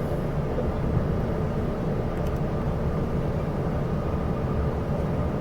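Steady low rumble inside a moving Chu-Kuang Express passenger coach: wheels running on the rails and the carriage's running noise, with no clear changes.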